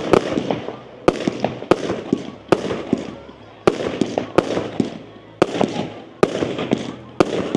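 Fireworks going off in a rapid sequence: sharp bangs about once a second, now and then two close together, each trailing off within about a second.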